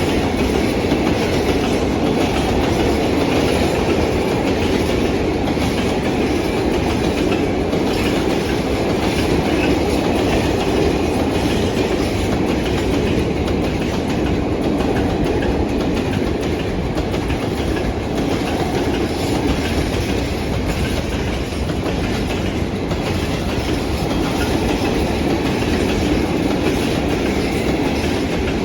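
Train rolling along the track: a steady rumble of wheels on rails, with clickety-clack over the rail joints.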